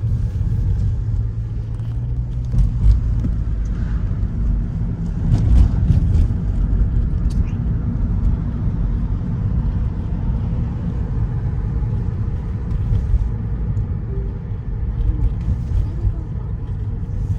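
Steady low rumble of a road vehicle, with a few faint ticks and a brief swell partway through.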